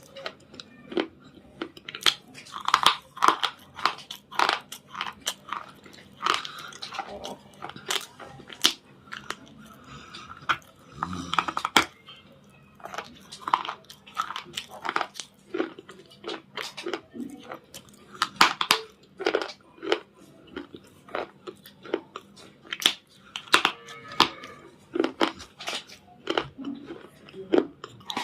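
Biting and chewing of hard, brittle red 'cubicle stone' cubes: a run of sharp crunches and crackles at irregular intervals, with short pauses between bites.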